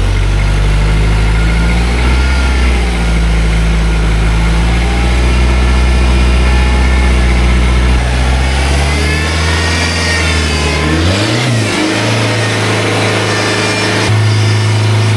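Turbo diesel engine of a modified LN106 Hilux working steadily at low revs while crawling over rock. About ten seconds in, the revs rise and fall, then settle to a steady note.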